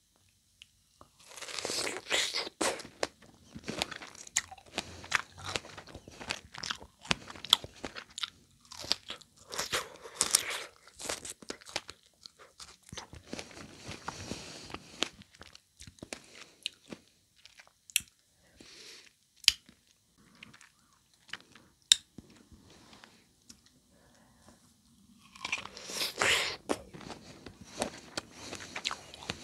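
Close-miked mouth sounds of a person biting and chewing strawberries: dense runs of sharp clicks and smacks from about a second in, thinning to a few isolated clicks past the middle, then a loud cluster again near the end.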